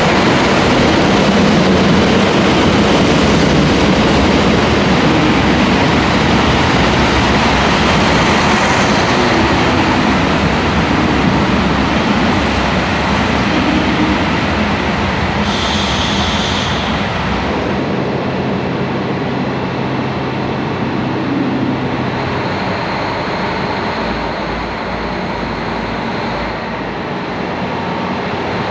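KiHa 183 series diesel express train running, its diesel engines and wheel noise loud and steady, with a brief high-pitched sound about halfway through.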